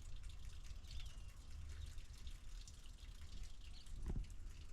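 Quiet background with a steady low rumble, a few faint short high chirps, and a soft thump near the end.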